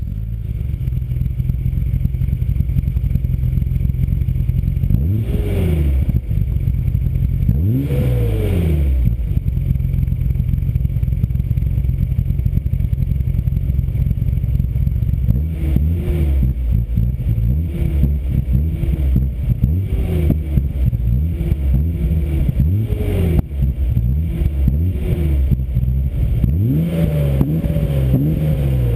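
BMW M5 E34's S38B38 straight-six through a Scorpion aftermarket exhaust, idling and being revved in place. Two single blips come in the first third. From about halfway there is a run of short, quick throttle blips, roughly one a second, and the revs are held higher near the end.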